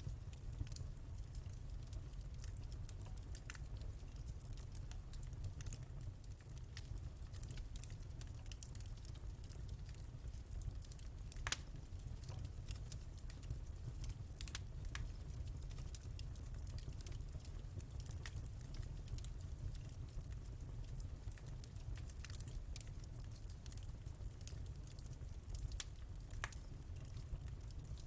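Wood fire crackling in a fireplace: irregular small pops and snaps over a steady low rumble, with one sharper snap about halfway through.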